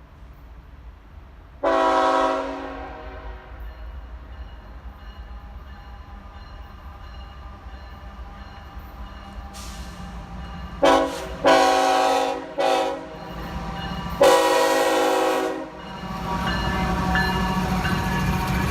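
Diesel freight locomotive's multi-chime air horn: one long blast about two seconds in, then a short, a longer, a short and a long blast from about eleven seconds on. The locomotive's engine rumble grows louder near the end as it approaches.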